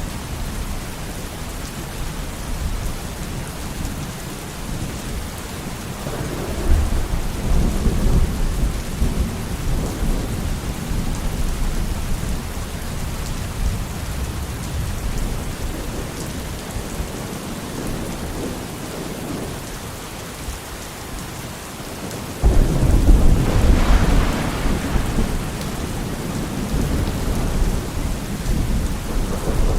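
Steady rain with thunder rumbling twice: a low roll about six seconds in, and a louder, sudden peal a little past twenty seconds in that fades over several seconds.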